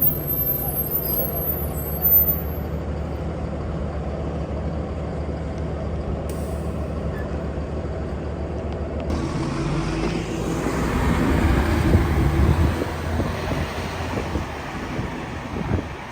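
City transit bus running with a steady low engine drone and a short loud peak about two seconds in. About nine seconds in the sound changes, and it grows louder for a few seconds as a vehicle passes close.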